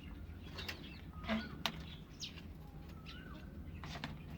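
Caged birds moving about: a few short warbling chirps and scattered wing flutters and light clicks, over a steady low hum.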